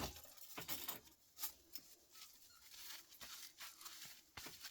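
Scattered faint clicks and rustles of small metal scrap parts, copper yoke windings, being handled and cut on a workbench.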